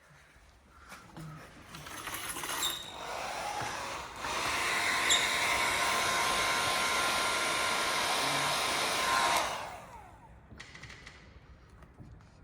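Heat gun blowing steadily to soften vinyl wrap film, then switched off about three quarters of the way in, its fan winding down.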